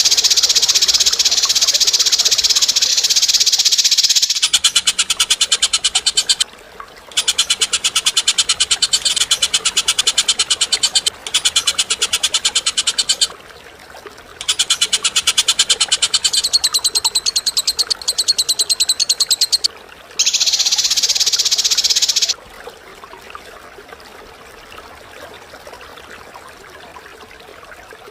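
A bird giving high-pitched, very rapid chattering trills in long bursts of several seconds, with short breaks between them. It turns much fainter for the last several seconds.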